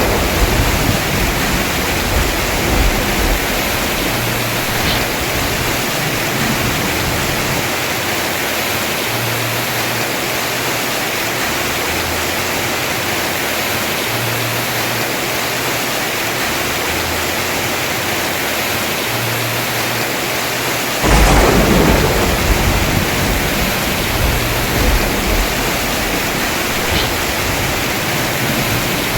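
Heavy rain pouring steadily on a house roof. About two-thirds of the way through a sudden clap of thunder breaks out and rumbles away over several seconds; the rumble of an earlier thunderclap fades in the first few seconds.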